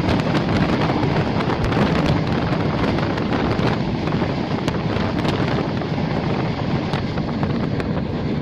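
Wind buffeting the microphone at the open window of a moving passenger train, over the steady running rumble of the coach's wheels on the track, with a few sharp clicks.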